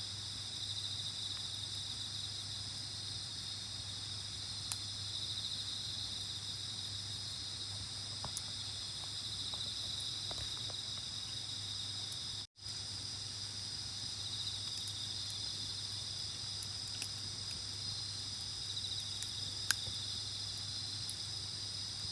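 Night insects, crickets among them, trilling in a steady high-pitched chorus, with a few sharp pops from the campfire. The sound cuts out for an instant about halfway through.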